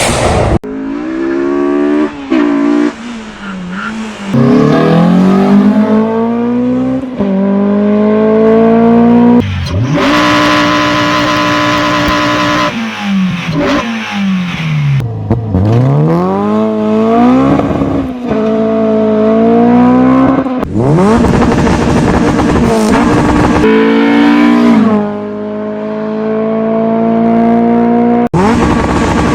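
Honda K20A2 2.0-litre four-cylinder engine's exhaust and intake note revving. The pitch climbs steadily and falls back several times, sometimes suddenly, with a steady high-rpm stretch about a third of the way in.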